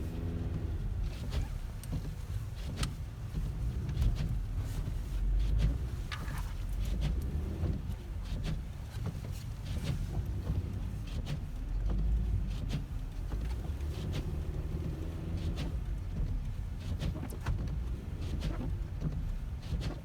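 Car driving through snow, heard from inside the cabin: a steady low rumble of engine and tyres, with scattered clicks.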